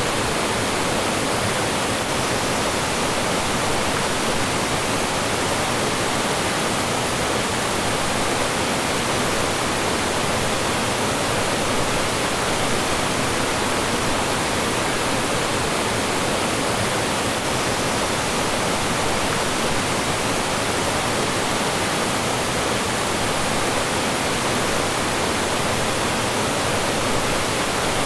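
Mountain stream flowing and falling over rocks: a steady, unbroken rush of water.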